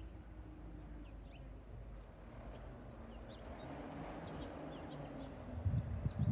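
An engine runs at a steady low hum while small birds chirp now and then. Near the end come a few louder, low rumbling thuds.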